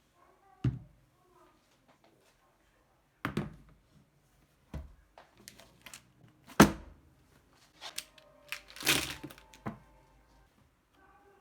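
A series of separate knocks and clatters from objects being handled and set down, the loudest about halfway through, with a short rustle about nine seconds in.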